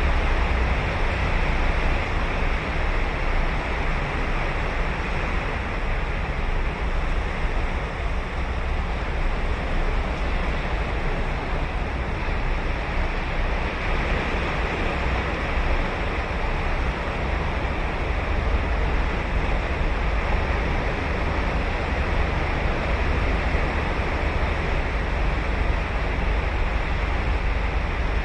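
Ocean surf breaking and washing onto a sandy beach: a steady, continuous wash of waves with a deep low rumble, swelling gently now and then.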